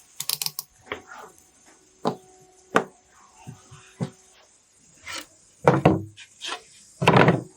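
Hand work on a small speaker: a series of sharp knocks and clicks, then several longer scraping strokes, the loudest about seven seconds in.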